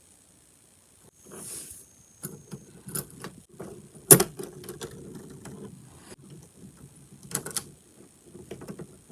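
Small plastic and metal parts of an HO scale boxcar kit being handled and fitted together, with scattered clicks and knocks. The sharpest click comes about four seconds in, another about seven and a half seconds in.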